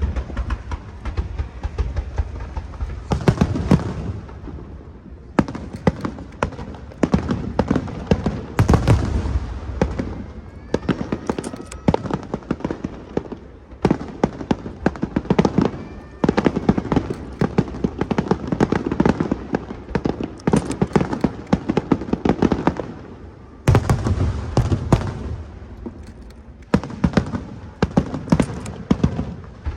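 Aerial fireworks bursting: dense rapid crackling and deep booms in waves, with short lulls between volleys and a few faint rising whistles.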